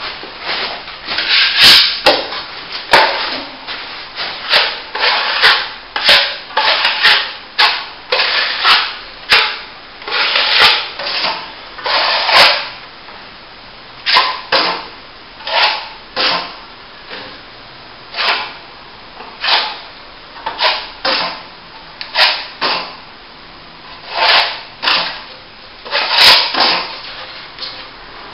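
Steel plastering trowel scraping over wet top-coat plaster in a long series of short, uneven strokes, about one or two a second with brief pauses, as the top coat is spread and shaped over a plasterboard repair.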